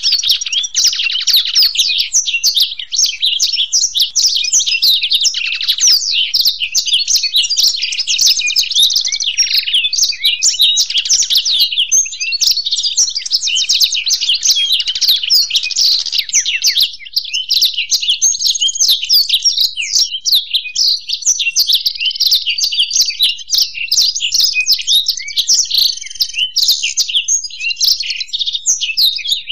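Black-throated canary (blackthroat) and European goldfinch singing together without pause: a dense, continuous stream of rapid, high-pitched twitters and trills.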